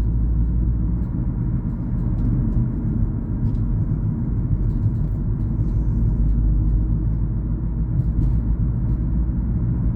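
Steady low rumble of a car being driven along a road, engine and tyre noise heard from inside the cabin.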